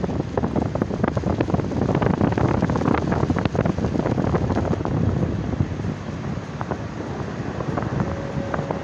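Wind blowing hard across the microphone: a continuous rushing noise that swells and eases in gusts, with crackling buffets on the mic.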